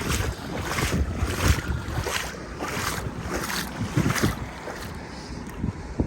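Deep floodwater sloshing and swishing around a person's legs as they wade, one surge roughly every two-thirds of a second, easing off near the end. Wind buffets the microphone throughout.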